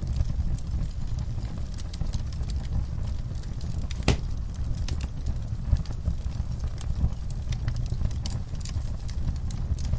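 Wood fire burning in a fireplace, crackling with scattered sharp pops over a steady low rumble of the flames; one louder pop about four seconds in.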